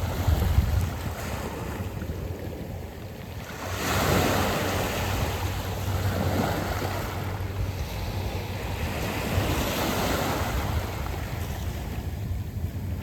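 Waves washing onto a round-pebble beach, swelling about four seconds in and again near ten seconds, with low wind rumble on the microphone.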